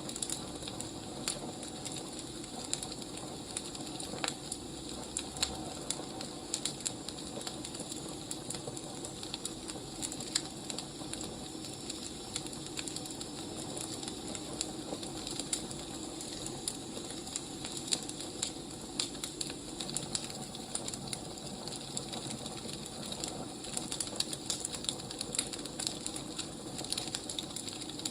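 Crackling wood fire: a steady soft hiss with frequent irregular pops and snaps of burning logs.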